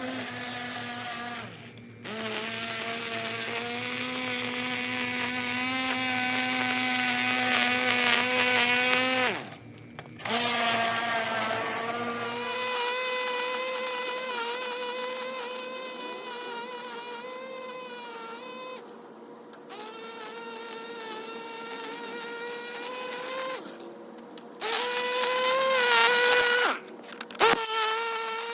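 Small motor of a handheld lawn-edging tool running at high speed, its whine wavering in pitch as it works along the edges, with several brief breaks.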